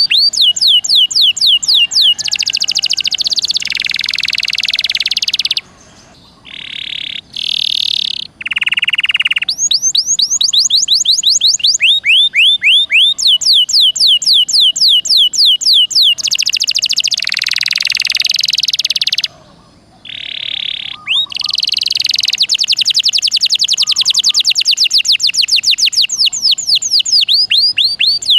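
Domestic canary singing a long, vigorous song: rapid trills of quick downward-sweeping high notes, alternating with dense buzzy, rattling phrases. There are two brief pauses, about six seconds in and again near twenty seconds.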